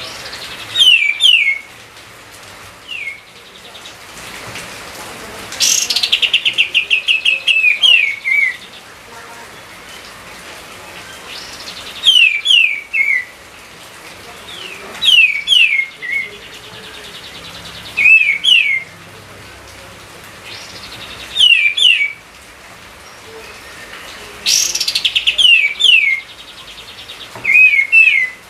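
A songbird singing short, loud phrases of two or three quick downslurred whistles, repeated every two to three seconds. A few phrases open with a fast buzzy trill.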